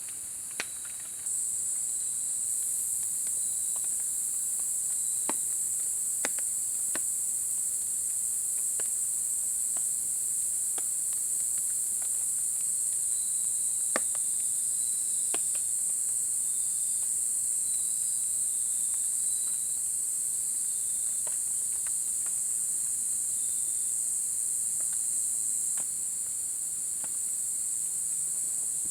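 Insects chirring in a steady, high-pitched drone that steps up a little about a second in. Short faint chirps sound on and off beneath it, and scattered sharp ticks come through the drone.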